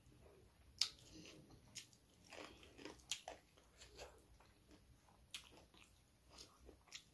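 Close-miked chewing of food, with a few sharp crunches scattered through it, the loudest about a second in.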